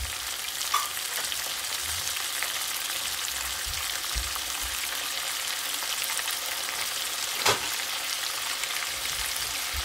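Potatoes, onion and sliced tomatoes frying in a pot on the stove: a steady sizzling hiss, with a single sharp click about seven and a half seconds in.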